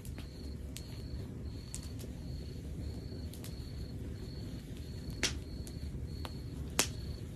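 Log fire burning with a low steady rumble and scattered crackles, and two sharper pops in the second half. A high chirp repeats evenly, just under twice a second.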